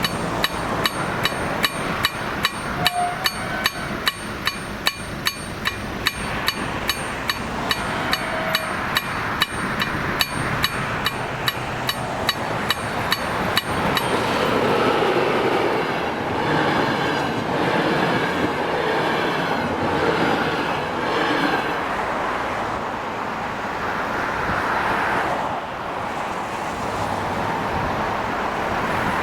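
KLD-4013 electronic level-crossing bell striking about twice a second, stopping about halfway through. A train then passes over the crossing with a rising and falling rumble of wheels on rail.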